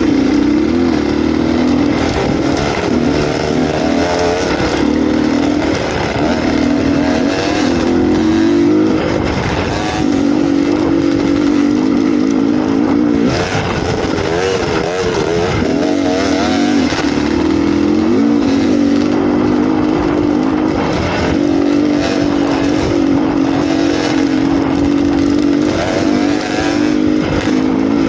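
Dirt bike engine running steadily while it is ridden off-road, the revs rising and falling several times with the throttle.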